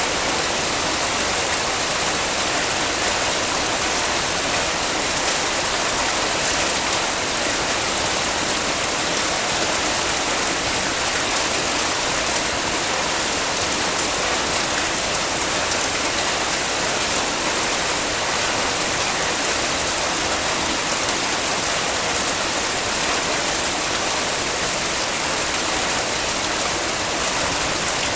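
Heavy rain falling steadily, a dense even hiss of many drops with no breaks.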